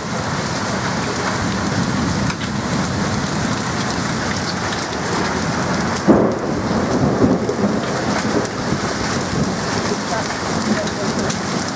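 Heavy storm rain with pea-sized hail pouring down in a steady, loud hiss, with a sudden louder burst about six seconds in.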